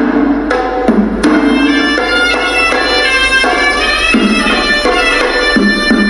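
Sri Lankan hewisi temple music: a horanewa, the shrill double-reed pipe, plays a melody moving from note to note over beating drums.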